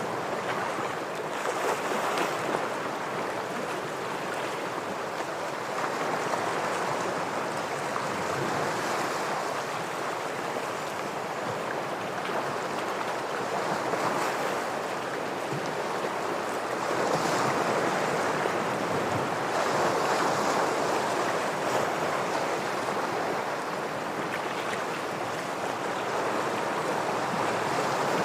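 Ocean waves breaking against rocks: a continuous wash of surf that swells and eases every few seconds.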